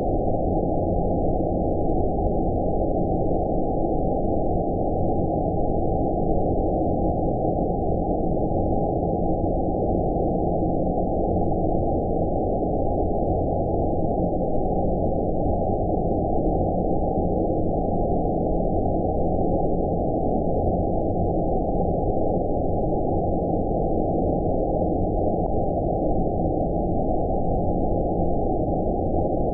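Steady, deep rumbling noise with everything above about 900 Hz cut away, sold as outer-space ambience for sleep. It holds an even level throughout, with no changes or events.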